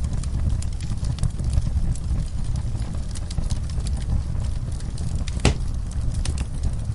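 Wood fire in a fireplace crackling: scattered small pops over a steady low rumble, with one louder crack about five and a half seconds in.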